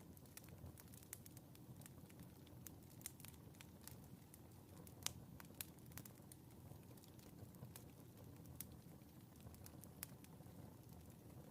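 Wood fire crackling in a fireplace: irregular sharp pops over a low steady rumble, the loudest pop about five seconds in.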